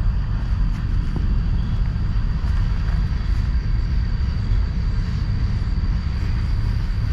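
Steady low rumble of wind buffeting the microphone, with a faint steady high whine above it.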